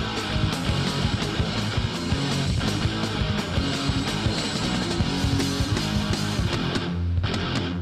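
Hardcore punk band playing an instrumental passage: distorted electric guitars with bass and drums, no vocals. About seven seconds in the cymbals and upper sound cut out briefly, leaving a low held note.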